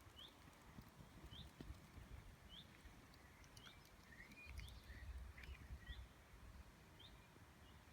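Faint outdoor birdsong: a small bird repeats a short, high chirp about once a second, with a few other bird notes mixed in about halfway through. A low rumble rises and falls under it in the middle.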